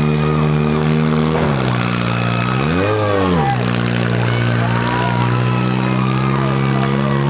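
Four-cylinder demolition derby car engines running through pipes cut up through the hood, one revving up and back down once about three seconds in, with a shorter rev near the end.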